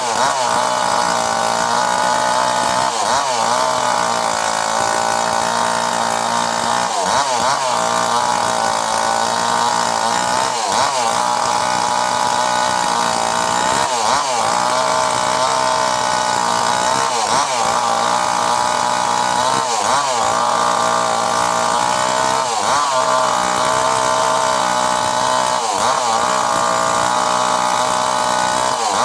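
Mini chainsaw running steadily, its pitch dipping briefly and recovering about every three seconds.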